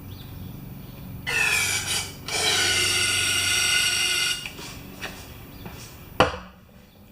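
Aerosol carburetor cleaner sprayed into a generator engine's intake to prime it: a short squirt, then a longer hiss of about two seconds, followed near the end by one sharp knock.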